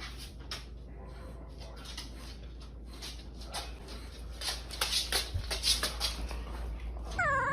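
Dog licking at an empty food bowl: quick, irregular wet clicks and smacks that grow louder about halfway through. A dog's whine starts just before the end.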